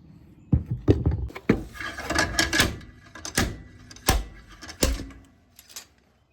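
Slide hammer knocking while pulling a bearing out of a rear axle housing: a run of sharp metal clanks, irregular, about seven to ten in five seconds, dying away near the end.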